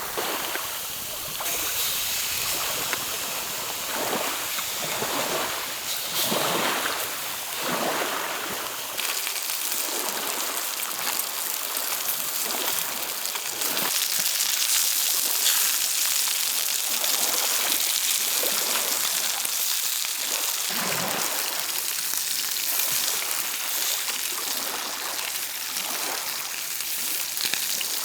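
Small lake waves lapping and washing against the shore in a steady hiss, with soft swells every second or two.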